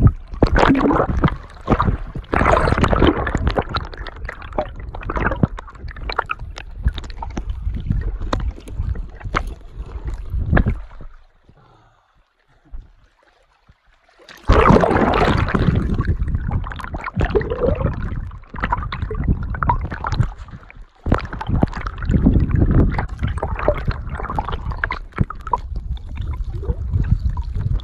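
Flowing water in an aqueduct channel recorded with the phone's microphone held under the water: loud, rough water noise. It drops nearly away for about three seconds midway, then comes back just as loud.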